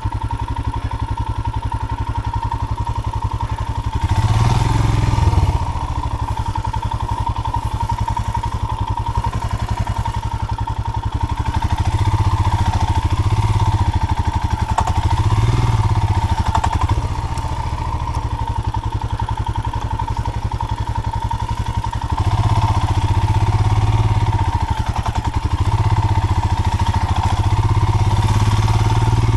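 Royal Enfield 410 cc single-cylinder motorcycle engine running under load in deep mud, revs rising in several surges and easing off between them as the rider works the bike forward little by little, trying not to burn the clutch.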